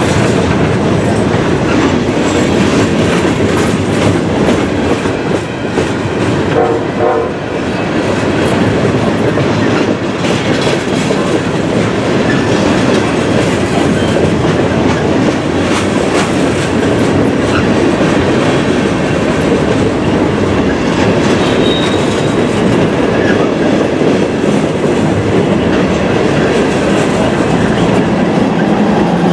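Freight train of open-top gondola cars passing close by: a loud, steady rumble and clatter of steel wheels over the rails.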